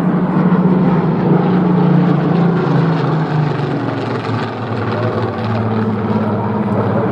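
Propeller-driven display aircraft's engine running loud and steady, its tone dropping noticeably about halfway through.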